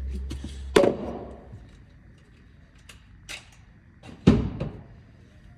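Two sharp knocks or bangs about three and a half seconds apart, the second the loudest, with a few faint clicks between them. A low rumble stops just before the first knock.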